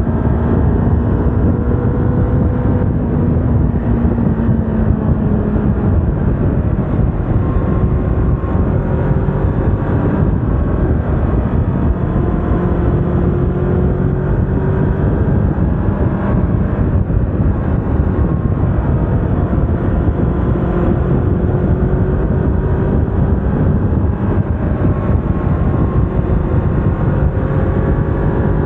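Yamaha R25 motorcycle's parallel-twin engine running on the move, its pitch gently falling and rising with the throttle, under a steady rush of wind noise on the microphone.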